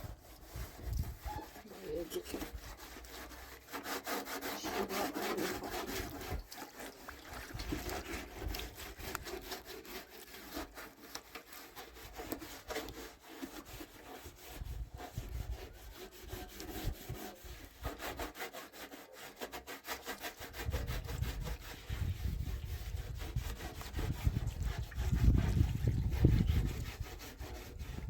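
Rapid, repeated scraping or rubbing strokes go on throughout, with a deep rumble joining in over the last third.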